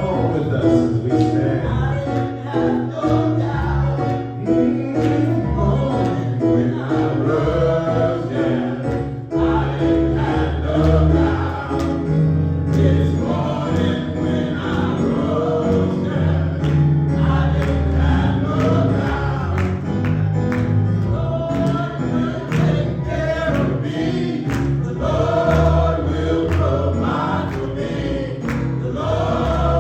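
Gospel choir singing over a band with bass and drums, a steady beat throughout.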